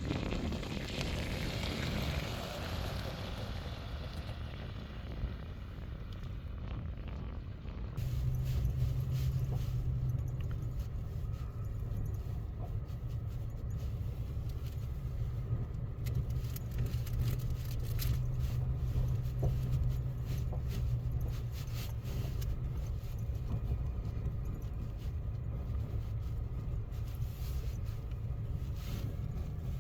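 A truck being driven: a steady low rumble of engine and road noise, which grows heavier and steadier about eight seconds in.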